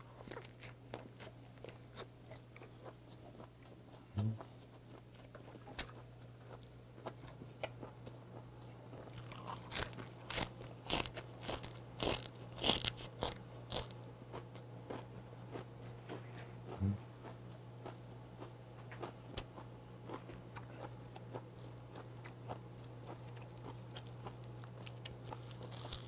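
Close-miked chewing and crunching of a mouthful of gwamegi (semi-dried Pacific saury) wrapped with raw vegetables and seaweed, the crunching heaviest around the middle.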